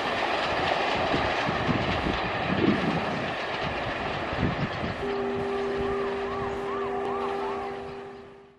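Coaches of a passenger express rolling away at speed, a loud rumble with irregular clatter of wheels over rail joints and points. About five seconds in, a long steady horn note with two tones starts and holds as everything fades out.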